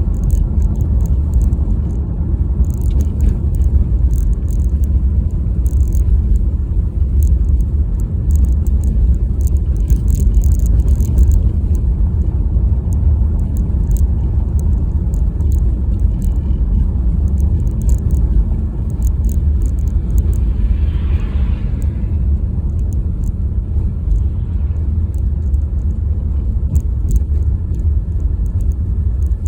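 A car's steady low road and engine rumble while driving, heard from inside the cabin, with faint scattered ticks over it.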